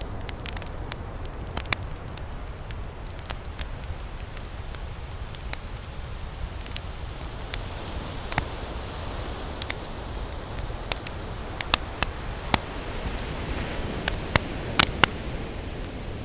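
Campfire crackling, with sharp irregular pops and snaps, several loud ones close together near the end, over a low steady rumble.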